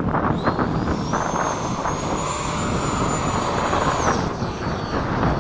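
Electric ducted-fan motor of a radio-controlled jet spooling up: a high whine that rises in pitch over about two seconds, holds, then drops away about four seconds in as the throttle comes back. Wind rumbles on the microphone throughout.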